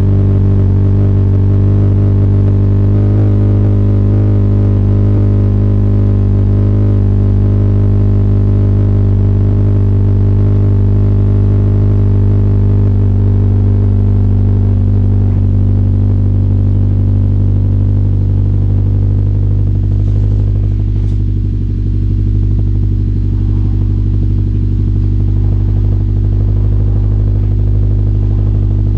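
A 9th-generation Honda Civic Si's 2.4-litre four-cylinder idling steadily through an aftermarket exhaust, on a cold-start fast idle after the car has sat unstarted for a week.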